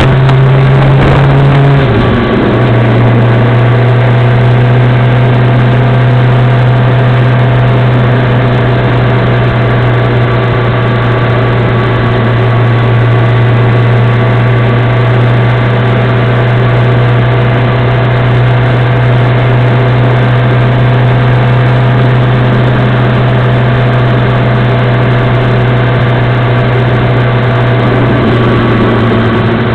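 Motorcycle engine running steadily, a loud even hum with a constant pitch. The pitch shifts briefly about two seconds in and again near the end.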